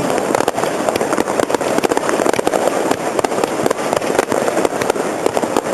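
Fireworks display: a dense, continuous crackle of many rapid pops with no pause.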